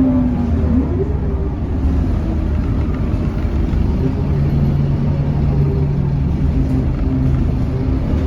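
Scania K230UB city bus under way, its diesel engine rumbling with the whine of its ZF automatic gearbox. A tone dips and rises again about a second in, then the pitch holds steady.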